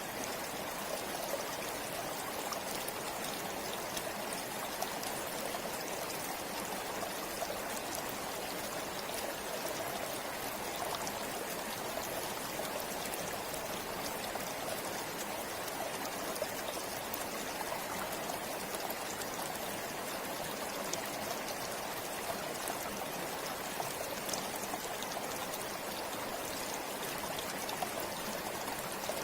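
River water flowing steadily over rocks, a continuous rushing with small splashes and trickles sprinkled through it.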